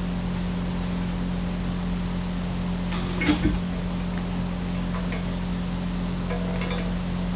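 A steady machine hum with a low drone, broken by a short double knock about three seconds in.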